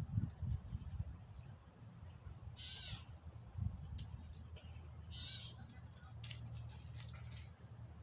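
Wild bird calling outdoors: two harsh, rasping calls about two and a half seconds apart, with a few faint high chirps in between.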